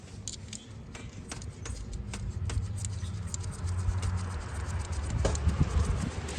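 Light metallic clicks and ticks, a few a second and unevenly spaced, from hand tools working on the ignition coils in the engine bay, over a steady low hum.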